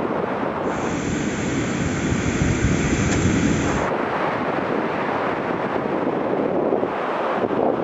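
Wind blowing hard across the microphone, a steady rushing noise, with heavier low buffeting from about one to four seconds in.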